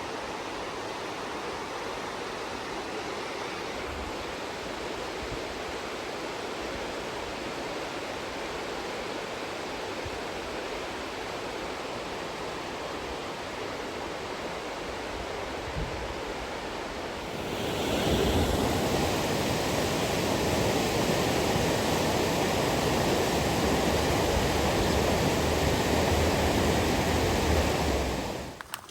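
Rushing water, as of a mountain stream or waterfall, as a steady roar. It gets louder about 17 seconds in and cuts off abruptly near the end.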